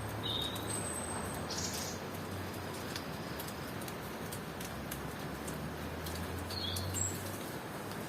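Steady rain with scattered drips, and a few short, high bird chirps: several in the first two seconds and a couple more near the end.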